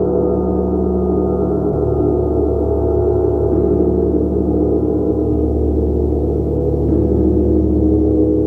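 Large gong played continuously, a dense sustained wash of many low tones, renewed by soft strikes a few times without any sharp hits.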